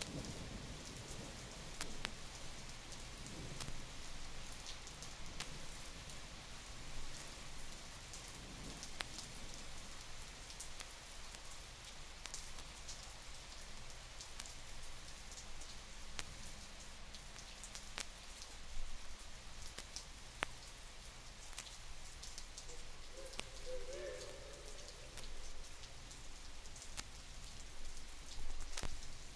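Steady rain falling, with scattered sharp ticks, on a 1961 field recording played back from a vinyl LP.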